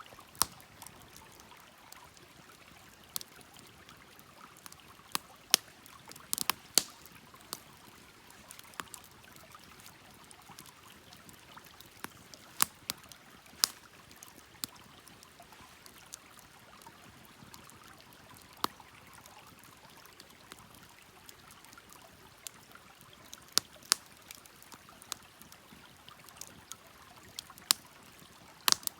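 Wood fire crackling: irregular sharp pops and snaps, a few of them loud, over a soft steady hiss.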